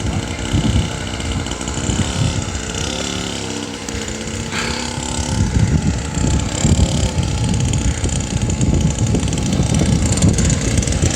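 Petrol mini motocross bike engine running, its pitch rising and falling as the throttle is opened and closed. In the second half the sound turns rougher and noisier.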